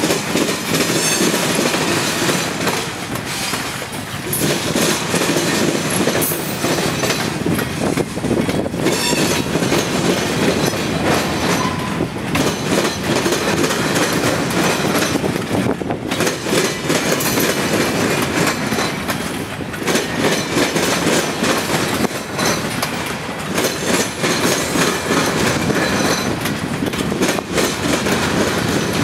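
Cars of a Canadian Pacific train rolling past close by, a steady loud rumble with wheels clacking over the rail joints.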